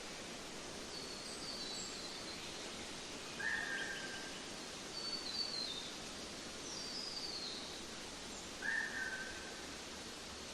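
Small birds chirping over a steady outdoor hiss: several short, high, falling calls, and two lower, louder calls about five seconds apart.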